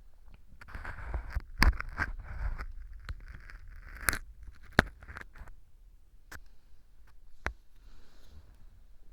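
Earpick scraping and crackling at pieces of dry baked wheat gluten (fu) glued hard as mock earwax inside a transparent ear tube. Scratchy strokes with several sharp clicks, busiest in the first half and sparser later.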